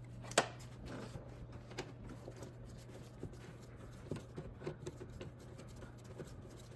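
Faint scattered taps, clicks and rustles of hand work on a car engine, over a steady low hum.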